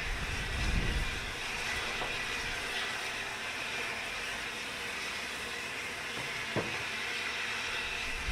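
Narrow-gauge steam locomotive standing and hissing steadily, with a low rumble in the first second and a single sharp knock about six and a half seconds in.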